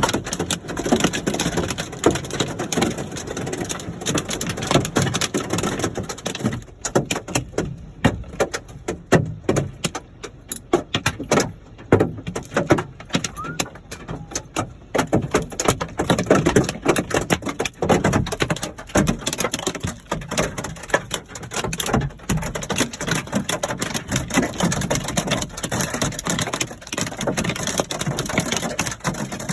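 Hailstones pelting hard surfaces in a dense, irregular clatter of sharp impacts over the hiss of falling precipitation, thinning out for several seconds in the middle before picking up again.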